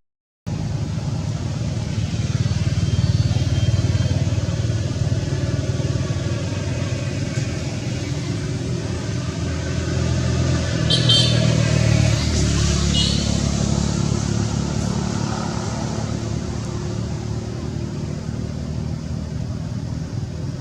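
Steady low rumble of road traffic, motor vehicles running close by, with two brief high-pitched squeaks about eleven and thirteen seconds in.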